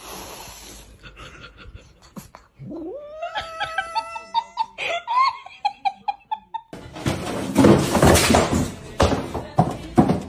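A cat yowling: one long call that rises in pitch and is held, then several shorter wavering calls. From about two-thirds of the way in, loud pulsing laughter.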